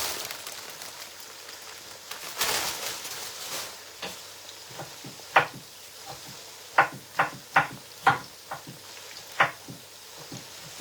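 Food frying in oil in a cooking pot, a steady sizzle with a louder rush about two seconds in, then a spoon stirring and knocking sharply against the pot several times.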